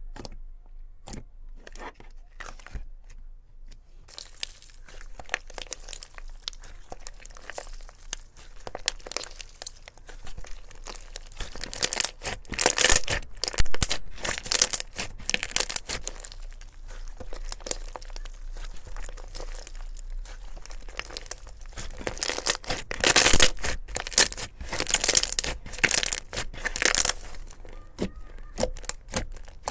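Slime handled and squeezed by hand, making crackling, crinkling pops. At first there are only a few separate clicks; about four seconds in, the crackling becomes dense and continuous, swelling louder twice.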